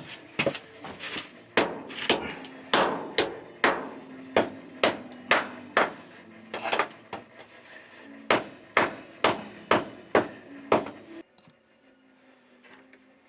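Hand hammer blows in an uneven run, about two a second, during concrete work. They stop about 11 seconds in.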